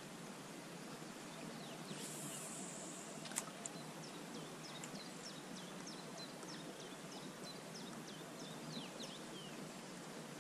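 Faint songbird song from the riverside forest: a long run of quick, short falling notes over steady outdoor background noise. Earlier there is a brief high hiss followed by a single sharp click.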